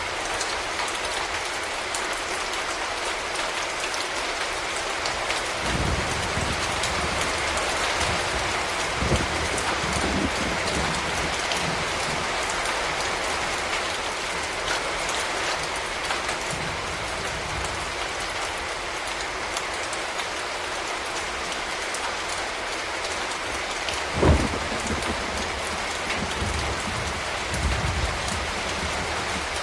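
Steady rain falling and pattering on hard surfaces. A few dull low thumps stand out from it now and then, the clearest about three-quarters of the way through.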